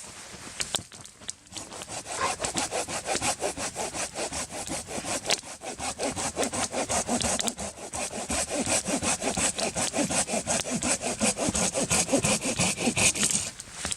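A saw cutting through a small, rotten cedar trunk for firewood, with quick, even back-and-forth strokes that start about two seconds in.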